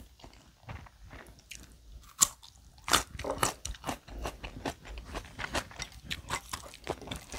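Close-up chewing of a raw garlic clove: a run of crisp, sharp crunches, loudest about two to three seconds in, then smaller crunches at a steady chewing pace.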